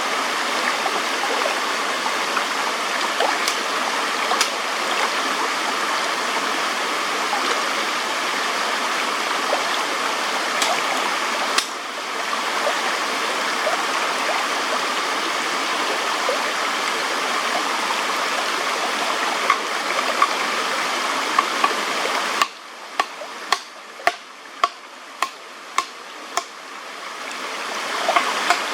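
Steady rushing of a stream, flecked with small crackles. About twenty-two seconds in, the rushing drops away abruptly and a run of sharp knocks follows, about two a second, before the water noise rises again near the end.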